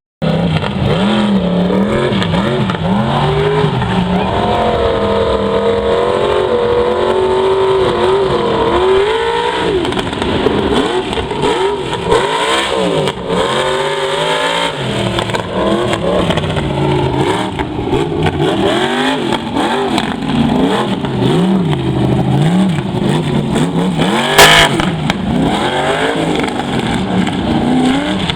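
Mega truck engine revving hard and repeatedly, its pitch climbing and falling as the throttle is worked. A sharp loud bang cuts through about 24 seconds in.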